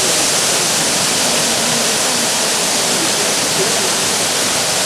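Dzhurdzhur waterfall, the water of the Eastern Uluzen river pouring over its cascade in a loud, steady rush.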